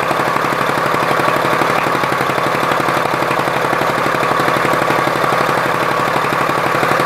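Honda Shadow 600's liquid-cooled V-twin engine idling steadily, heard close to the muffler outlet, with an even, rapid exhaust pulse.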